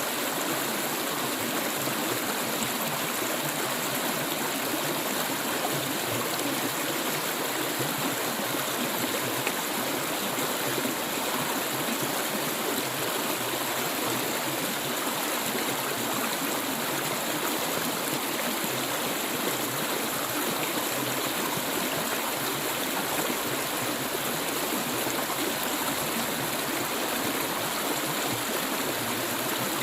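Clear stream water flowing steadily, a continuous rushing and gurgling with no breaks.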